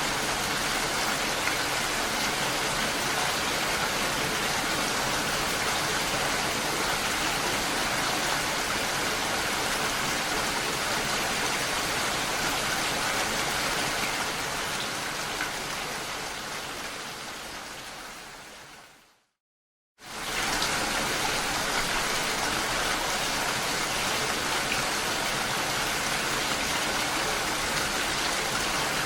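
Steady rain falling. About two-thirds of the way through it fades out to a second of silence, then cuts back in abruptly: an edit or loop point in the recording.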